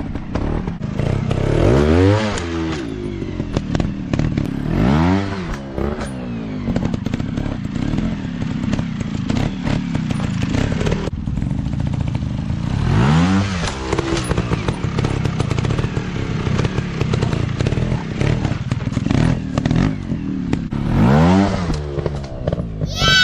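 Dirt bike engine revving up and dropping back about four times, with clicking and rattling throughout.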